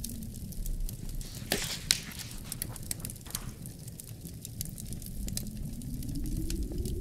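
Wood fire crackling with many sharp pops and a short hiss about a second and a half in, over a low moaning wind that swells and rises in pitch near the end.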